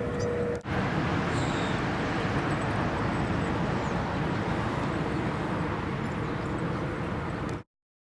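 Steady outdoor background noise with no distinct events, of the traffic-and-wind kind. It drops out briefly about half a second in, and cuts off abruptly near the end.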